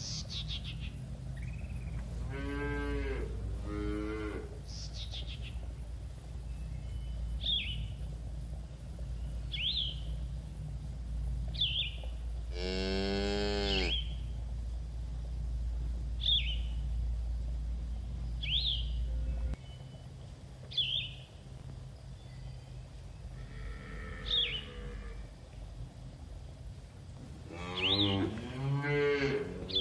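Cattle mooing: two short moos near the start, one long loud moo around the middle, and several more near the end. A bird gives a short sharp chirp every couple of seconds, over a low steady rumble that cuts off about two-thirds of the way through.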